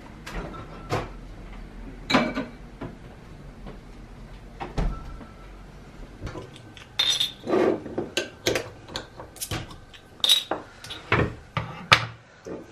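A run of clinks, clicks and knocks of household objects being handled, like dishes and cutlery, sparse at first and coming thick and fast from about halfway through.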